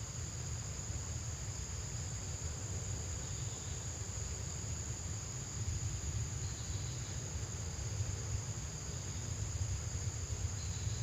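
Insects trilling steadily at a high pitch, over a low steady rumble.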